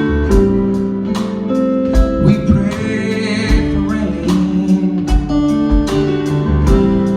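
Live band playing an instrumental passage between sung lines: guitar over a steady drum beat.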